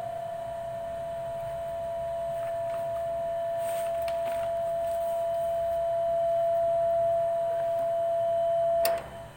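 A single steady, high tone ringing on after the recitation ends and slowly growing louder, typical of microphone feedback through a prayer-room loudspeaker system. It cuts off abruptly with a click near the end.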